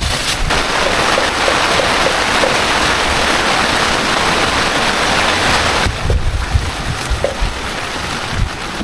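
Heavy rain hissing steadily. About six seconds in it changes abruptly to a duller rain noise with a few low thumps.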